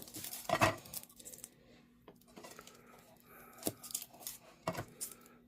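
Kitchen knife knocking and tapping on a chopping board while garlic cloves are peeled and trimmed: a few sharp knocks with lighter clicks between.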